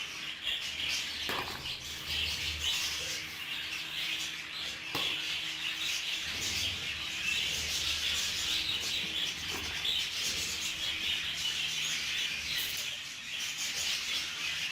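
Budgerigars chattering and chirping continuously, over a faint low steady hum.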